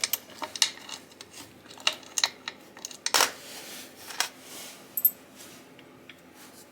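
Irregular metallic clicks and clinks of hand tools and loose bolts as bolts are worked out of a motorcycle engine cover. The loudest clank comes about three seconds in, and a short ringing clink about five seconds in.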